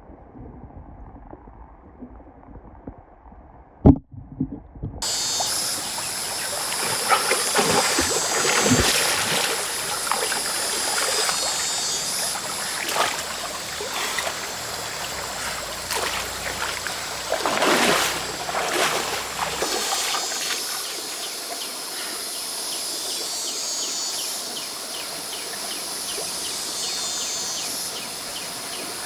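Stream water running and splashing a few times, with insects buzzing high above it. The first few seconds are muffled, with a single knock about four seconds in.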